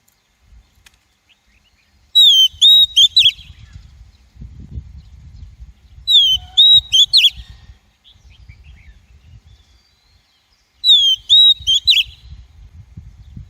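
Female oriental magpie-robin calling: three short phrases of sharp, sliding whistled notes, each about a second long, repeated about every four seconds. This is the call used as a lure to provoke and trap wild magpie-robins.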